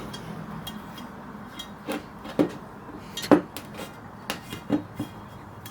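Irregular clinks and knocks of hard, partly metallic objects being handled, about eight in all, the loudest a little after two seconds in and just after three seconds in.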